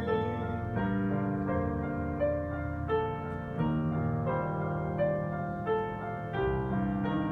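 Piano playing a slow instrumental passage, a new note or chord struck about every three-quarters of a second over held bass notes.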